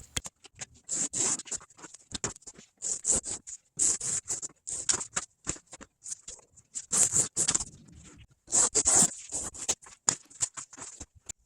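Short scratchy strokes of hand work on foam-backed upholstery material, coming irregularly about two a second with brief pauses between runs.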